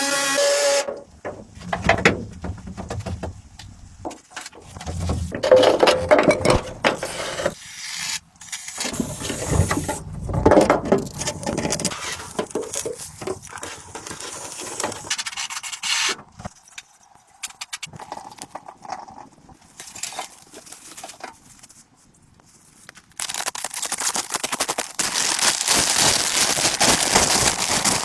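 Irregular scraping, rubbing and knocking of objects being handled, with a steadier hiss for the last few seconds.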